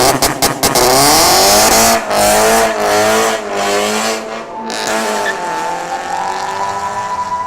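Subaru BRZ flat-four engine and exhaust revving hard: the pitch climbs, then rises and falls as the throttle is worked, loudest and hissiest in the first two seconds. The engine eases off in the second half.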